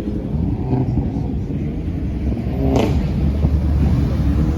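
Car engines running with a steady low rumble, getting louder in the second half, and one short sharp sound about three seconds in.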